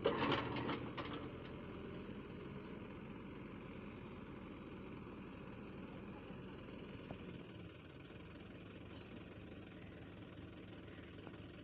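Diesel engine idling steadily, with a brief louder clatter in the first second and a slight drop in level about halfway through.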